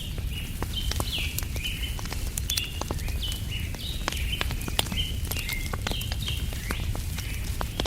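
Wood campfire crackling with frequent sharp pops over a low steady rumble, while a bird calls repeatedly in short high notes, some falling in pitch, about two a second.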